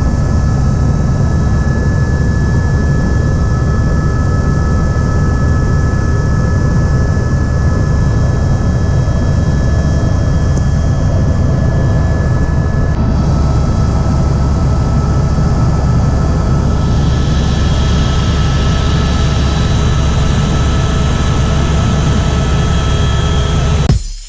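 Helicopter running steadily: a loud, even rumble of engine and rotor with a thin, steady high whine over it, which cuts off just before the end.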